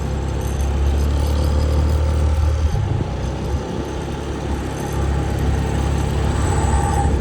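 Motor scooter engine running while riding, with a steady low rumble that eases about three seconds in and builds again near five seconds.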